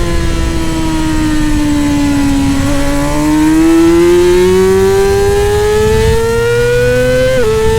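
Middleweight superbike engine under load. Its note sags slowly for a couple of seconds as the revs fall, then climbs steadily as the bike accelerates. Near the end the revs drop sharply at a gear change.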